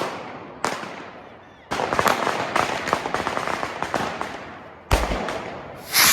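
Fireworks going off: a sharp bang, a second bang a moment later, then a rapid run of crackling bangs for about three seconds, another bang near 5 s and a louder hissing swell near the end. Each bang trails off in a long echo.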